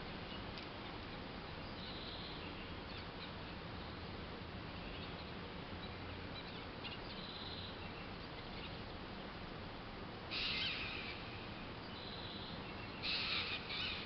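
Birds calling over a steady hiss of city background noise: a few faint, short, high chirps, then two louder, harsh, scratchy calls near the end.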